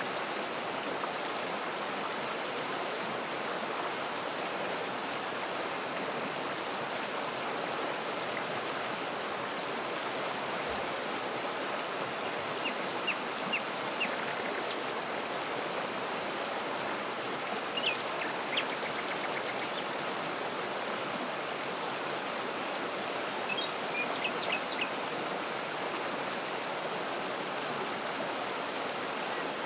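Steady rush of a waterfall or fast stream, with short high bird chirps breaking in a few times, about halfway through and again later.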